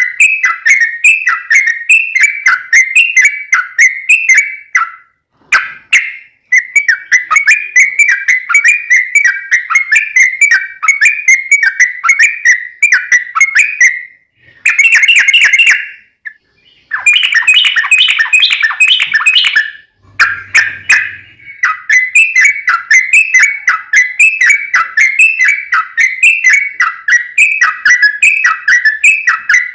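Yellow-vented bulbul (trucuk) singing a long, rapid chattering song: long runs of quickly repeated notes, broken by a few short pauses.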